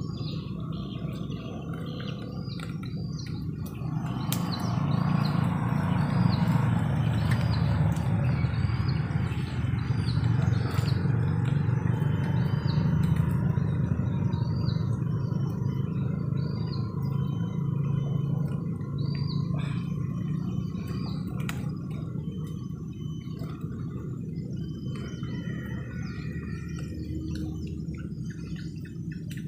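A bird repeating a short, hooked chirp about once a second, over a steady low rumble that grows louder about four seconds in and eases off in the second half.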